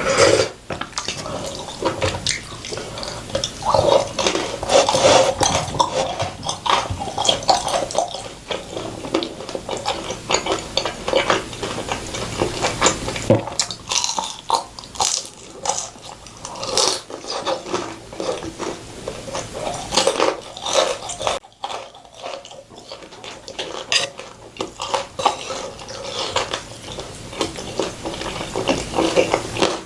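Close-miked eating sounds: wet chewing and slurping, with many quick clicks of utensils against dishes.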